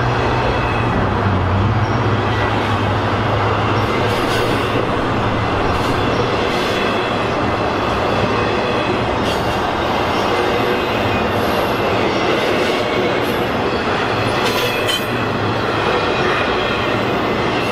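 Double-stack intermodal freight cars rolling past, steel wheels on rail making a steady loud noise with light wheel squeal and scattered clicks. A low hum in the first few seconds fades out.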